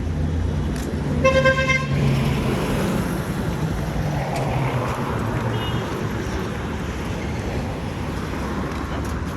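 Street traffic with a running vehicle engine, and a car horn honking once, loudly, just over a second in, with a brief fainter toot near the middle.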